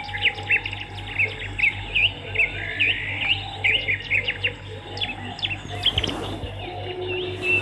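Swiftlets twittering: a dense, continuous stream of quick high chirps and short rising notes from many birds, over a steady low electrical hum.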